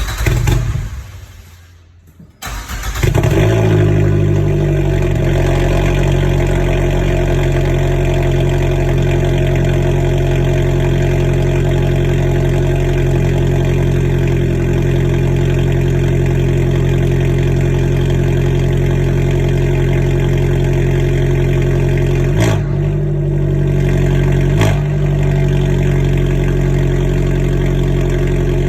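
Abarth 595 Competizione's turbocharged four-cylinder on a cat-deleted Akrapovic exhaust, cold-started. A short burst of engine sound fades out in the first two seconds. The engine then fires at about two and a half seconds and settles into a loud, steady fast idle, wavering briefly twice near the end.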